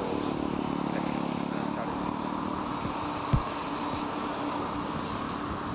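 Jet airliner engines running with a steady rush and a low drone that fades after about two seconds. A single thump comes about three and a half seconds in.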